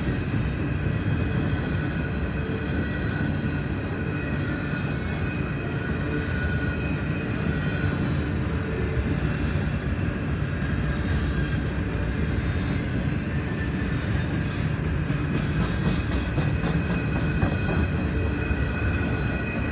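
Freight train rolling past: a steady, continuous rumble of wheels on rail, with several steady high whining tones held over it.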